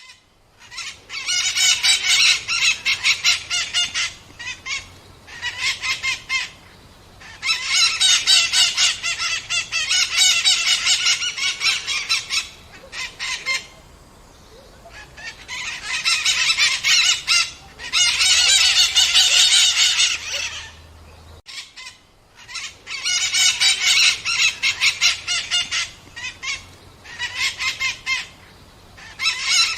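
Loud, raucous bird calls in bursts of several seconds: rapid strings of harsh repeated notes, with short pauses between bursts.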